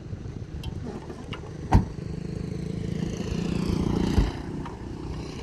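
A small engine running steadily, its pitch and level rising for about a second near the end. There is a sharp knock a little under two seconds in.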